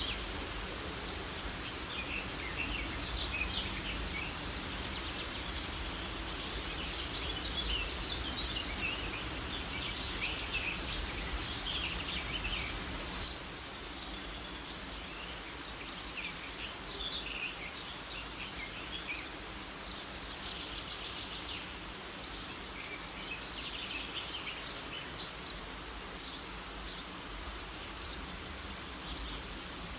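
Outdoor nature ambience: small birds chirping and calling on and off, while an insect gives a high, rapid trill in short bursts of about a second, several times over.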